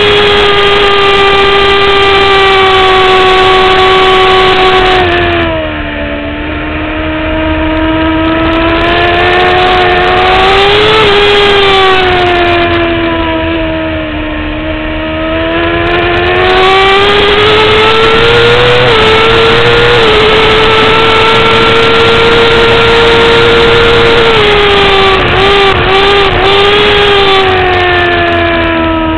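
2009 Kawasaki ZX-6R inline-four sport bike engine at high revs on a racetrack. It holds high revs, drops off twice under deceleration into corners and climbs back under acceleration, then holds a long high-rev run before a string of three quick downshifts near the end. Wind rushes over the onboard microphone underneath.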